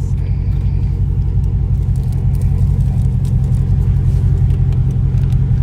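Dodge Charger Scat Pack's 392 HEMI V8 idling, a steady low rumble.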